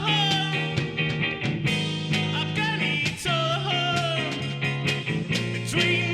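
Indie rock band playing a song live: a sung vocal line over guitar, bass and drums with a steady beat.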